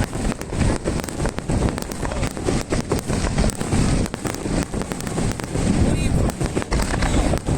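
Fireworks starmine barrage: aerial shells launching and bursting in rapid succession, a dense string of booms and cracks several times a second.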